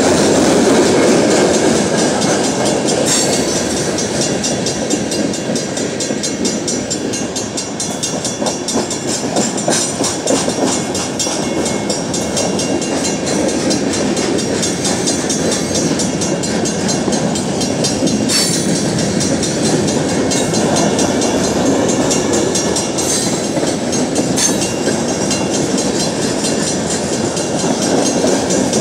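Boxcars of a loaded freight train rolling past at speed: continuous loud wheel-on-rail noise, with a few sharp clanks here and there.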